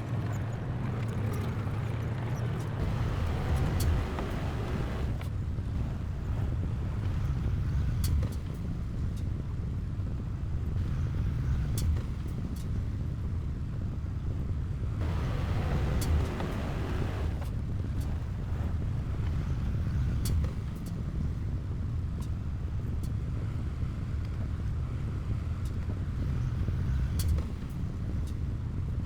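Heavy diesel earthmoving machinery working: a steady low engine rumble that swells twice under load, a few seconds in and again about halfway, with scattered sharp clicks and clanks.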